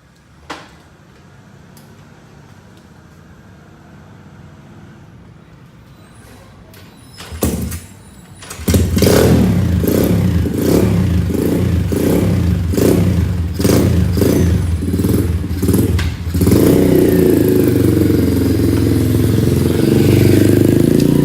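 A motorcycle engine catches about seven seconds in. It then runs loudly, its level surging and dropping in regular pulses about twice a second, before settling into a steady, louder run for the last few seconds.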